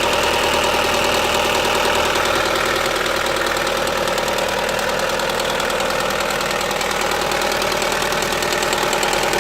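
Opel Astra H's 1.6-litre Z16XEP four-cylinder petrol engine running steadily with an evenly repeating mechanical noise. The owner reports this noise as coming from the rear area, along with a loss of power.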